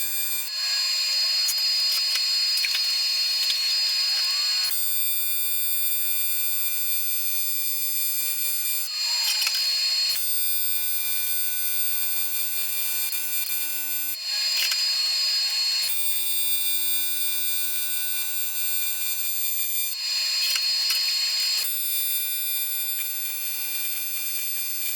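AC TIG welding of aluminium plate and tube: the arc buzzes and crackles in runs of a few seconds at a time. Between the runs a steady low hum with a high whine takes over, switching back and forth several times.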